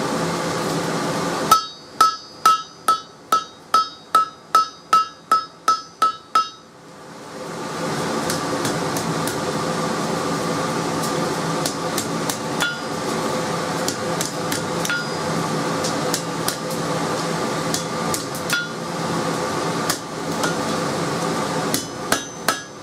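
Hand hammer striking hot truck-coil-spring steel on an anvil: about a dozen ringing blows, roughly two a second, then a steady blower hum with a few light taps, and a fresh run of blows near the end.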